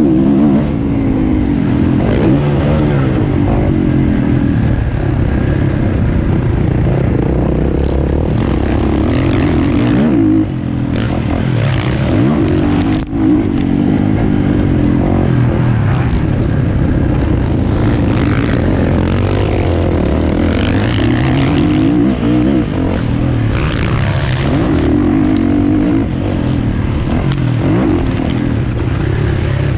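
A 450cc four-stroke motocross bike engine running hard, its pitch rising and falling as it revs up and shifts through the gears, with short drops in loudness about a third of the way in and again a few seconds later.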